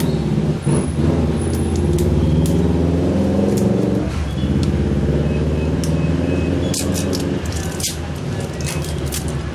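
Datsun Go Plus's 1.2-litre three-cylinder petrol engine revving up and held at a raised speed while its combustion chambers are cleaned with a decarboniser. The revs dip briefly partway through and ease off slightly near the end.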